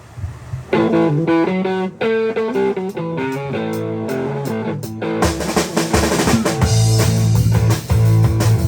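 A band starting a song: a guitar plays chords alone for a few seconds, then the drum kit and bass come in together about five seconds in.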